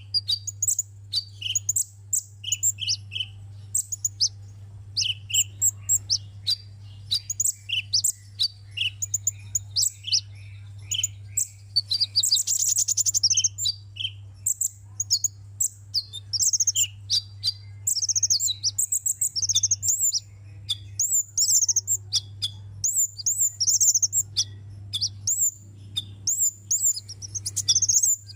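A sunbird singing a fast, continuous string of high-pitched chirps and short notes, with a denser trill about twelve seconds in. A steady low hum runs underneath.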